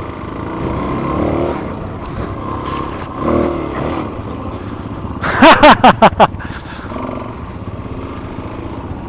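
Dual-sport motorcycle engines running around a tight dirt track, with a steady engine note. About five seconds in comes a run of five or six quick, loud revs, each rising and falling in pitch.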